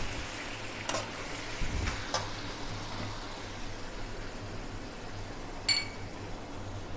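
A metal spoon working in a kadai of chicken. It gives a few light taps, then one ringing clink about two-thirds of the way through, over a faint steady background hum.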